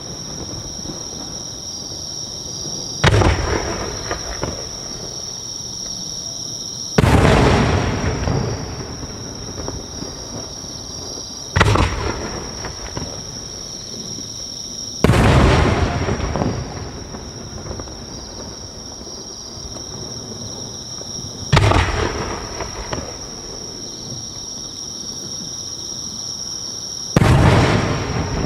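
No. 5 (5-go, about 15 cm) aerial firework shells bursting: six heavy booms a few seconds apart, each trailing off over a second or two.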